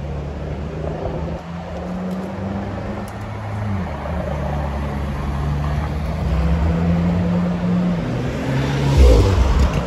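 Ferrari LaFerrari Aperta's V12 running at low speed as the car drives past and pulls away, its engine note stepping to a new pitch about four seconds in and again about eight seconds in, then a louder surge of revs about nine seconds in.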